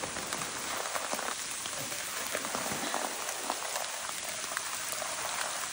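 Rain falling steadily: an even hiss with many small drop ticks.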